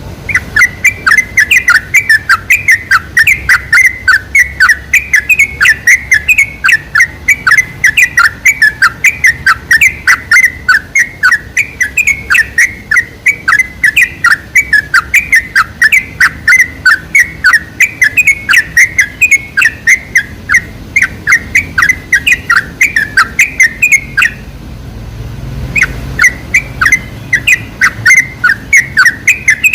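Yellow-vented bulbul (trucuk) singing a fast, steady run of short chirping notes, about three to four a second. The run breaks off for about a second and a half near the end and then resumes.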